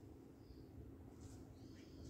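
Faint bird calls in the garden: a few short, high chirps, one about half a second in, one just after a second in and a sliding call near the end, over a low background rumble.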